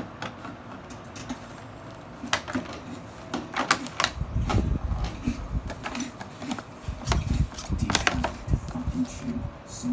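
Scattered sharp clicks and dull thumps of a Rottweiler puppy's claws and paws on the floor as she hops and runs about with her toy. The heavier thumping comes in two spells, about four seconds in and again around seven to eight seconds.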